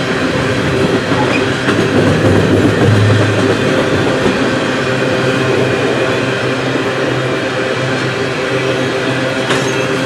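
Freight train tank cars rolling over a steel girder bridge overhead: a steady rumble of wheels on rail with a low hum from the bridge, swelling slightly a couple of seconds in.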